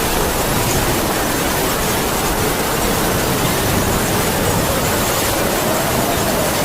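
Heavy rain falling steadily under a howling wind, the wind's whistle slowly rising and falling in pitch over the hiss of the rain.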